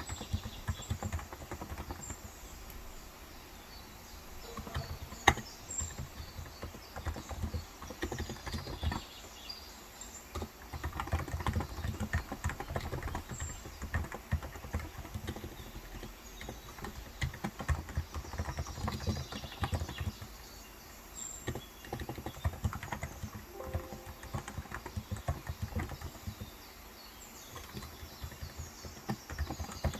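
Typing on a Cox Endeavor electrostatic capacitive (35 g, tenkeyless) keyboard: quick runs of soft key clicks broken by short pauses, with one louder key strike about five seconds in. Faint bird chirps can be heard behind the typing.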